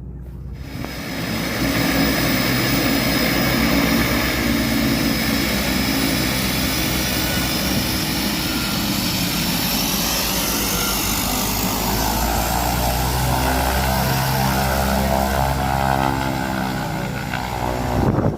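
Propeller seaplane's engine at high power, a loud steady drone that swells about a second in. Its tone shifts and sweeps through the second half as the plane moves past.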